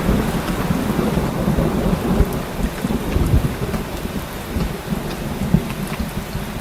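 Heavy rain falling steadily, with a continuous low rumble of thunder underneath and scattered crackling drops.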